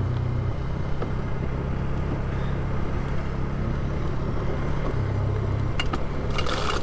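Polaris ATV engine running steadily at low speed, with no revving. Near the end come a few sharp crunches of rocks underfoot.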